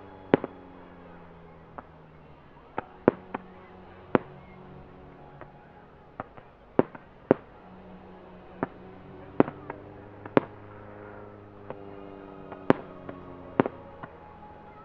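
Airborne pyrotechnics going off in a string of sharp cracks and bangs at irregular intervals, over the drone of a Grob 109 motor glider's propeller engine, whose pitch slowly falls and rises as it passes.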